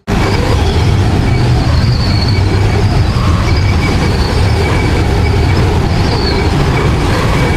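Strong wind blowing steadily, a deep rumble with a faint wavering high whistle over it; it starts suddenly.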